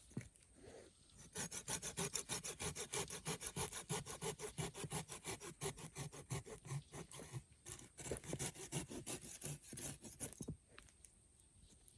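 Hand saw cutting through wood in fast, even back-and-forth strokes, about four or five a second, starting a little over a second in and stopping shortly before the end.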